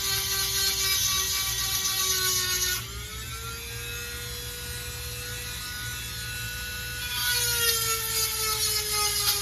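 Dremel rotary tool with a 7/32-inch chainsaw sharpening stone grinding a saw chain's cutters. The motor whine drops in pitch under a harsh grinding hiss, rises and runs lighter when the stone is lifted off for a few seconds, then falls again as grinding resumes near the end.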